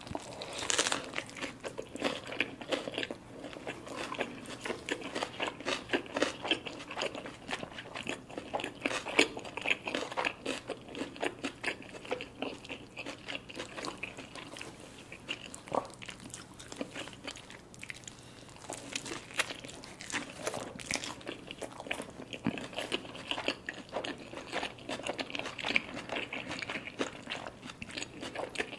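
Close-miked eating sounds of a burrito: a bite into its toasted flour tortilla about a second in, then steady chewing with many small crunching clicks.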